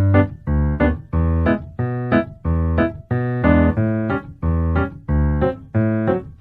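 Piano music: chords struck in a steady, even beat, with lighter notes between them.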